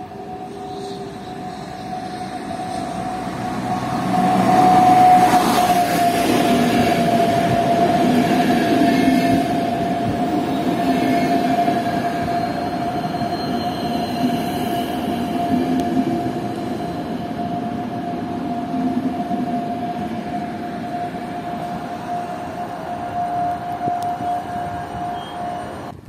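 A locomotive-hauled passenger train runs in along the platform. It is loudest as the locomotive passes, about five seconds in, and then its coaches roll by with a steady rumble. A steady high whine runs throughout.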